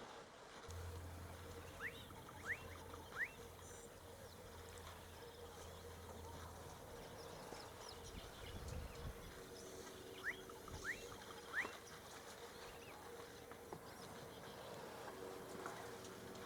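A bird calling: short, sharply rising whistles in two sets of three, about eight seconds apart, over faint natural background noise and a low steady hum.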